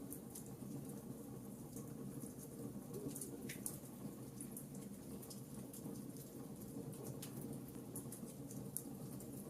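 Fireplace fire crackling: irregular small pops and snaps scattered over a steady low rumble of the flames.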